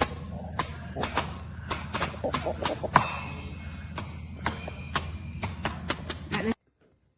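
Drumsticks striking the pads of a Donner DED-80 electronic mesh drum kit in quick, irregular hits over a low steady hum. The sound cuts off suddenly about six and a half seconds in.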